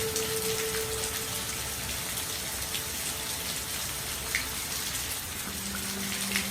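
Steady rain falling, an even hiss with a few separate drops standing out. A soft held music note fades out in the first couple of seconds and another comes in near the end.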